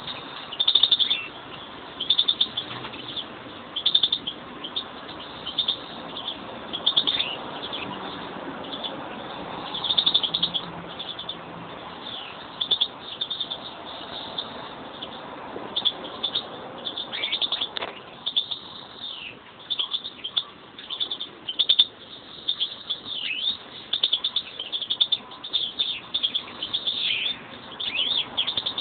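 A pair of pet European greenfinches chirping and twittering: a steady stream of short, high calls, some of them falling notes.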